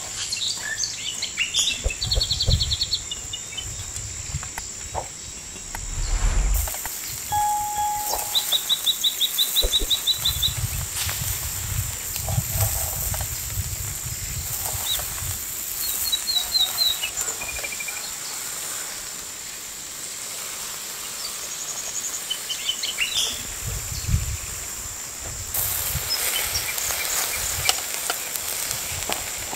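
Outdoor ambience with a small bird calling in short, rapid chirping trills several times, over a steady high hum and intermittent low rumbles.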